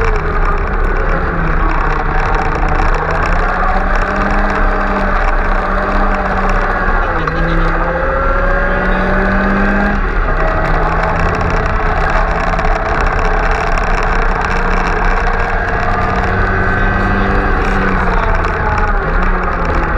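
Mk2 Ford Escort rally car's engine heard from inside the cabin, running hard at speed, its pitch climbing and dropping several times with road and wind rush underneath.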